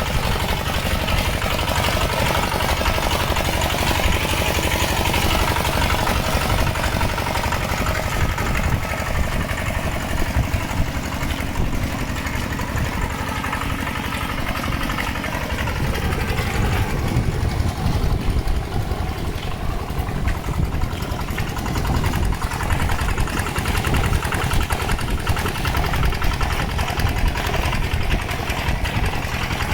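Mini tractor's engine running steadily while it pulls a plough through water and mud. The sound turns duller about halfway through, the higher part fading while the low engine rumble carries on.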